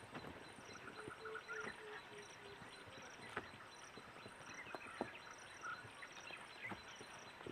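Quiet outdoor ambience: an insect chirping high and evenly, about one and a half chirps a second, with a few faint distant calls and a few isolated knocks.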